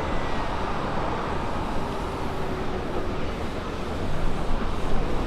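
Steady rumble of a vehicle running, with no sudden events.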